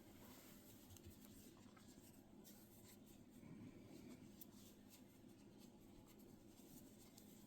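Near silence with faint scratching and rubbing of yarn being worked on a crochet hook.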